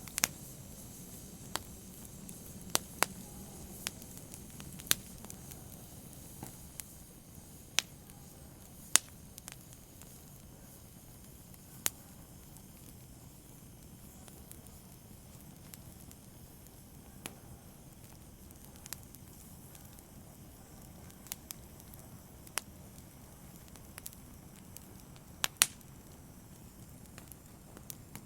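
Wood fire burning with a low steady hiss and sharp, irregular crackles and pops, about one every second or two, thicker in the first third and with a loud double pop near the end.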